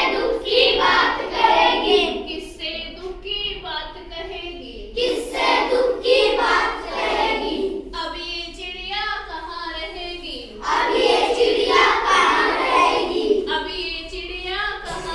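Children singing a Hindi children's poem together, phrase by phrase, with fuller group passages alternating with thinner single-voice lines.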